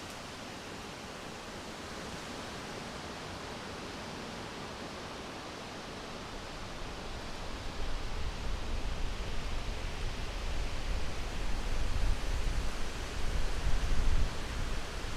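Steady, hissing wind. From about halfway through, a stronger gust adds a deep, fluctuating rumble that grows louder, then drops away just before the end.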